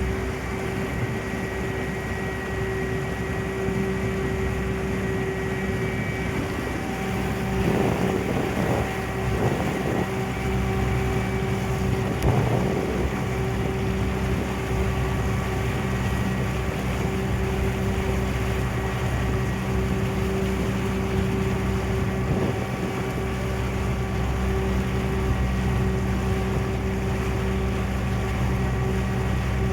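Steady drone of a passenger ferry's engine under way, with water and wind noise on the microphone and a few brief louder swells about a third of the way in.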